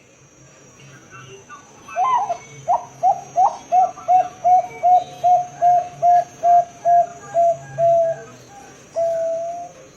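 Bangkok-bred zebra dove (perkutut) cooing: a run of about sixteen short, even coos at nearly three a second, then one longer held note near the end.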